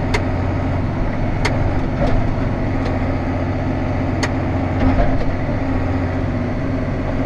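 Tractor engine running steadily at a low, even speed while a grain wagon is maneuvered into position, with a few sharp clicks over the hum.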